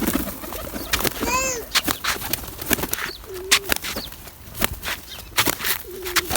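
Pigeons calling and moving about. About a second and a half in comes a short squeal that rises and falls, two low coo-like calls follow later, and sharp clicks are scattered throughout.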